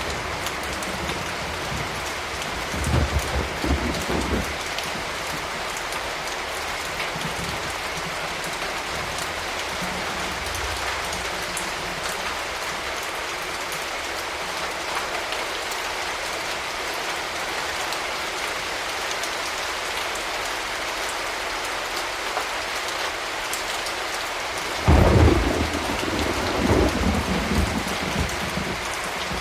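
Steady rain falling, with low rumbles of thunder a few seconds in and a louder clap near the end that rolls on for a few seconds.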